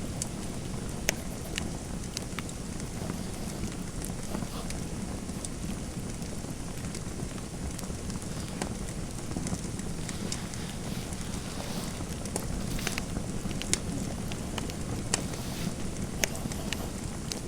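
Wood fire in a fireplace crackling: scattered, irregular sharp pops over a steady low noise.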